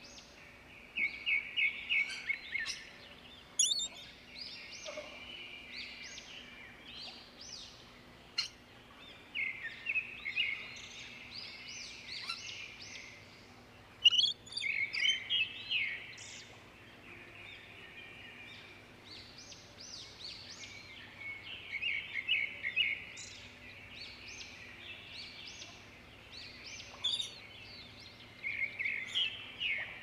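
Birds calling in spells of rapid, high chattering chirps a second or a few long, several times over, with a faint steady low hum beneath.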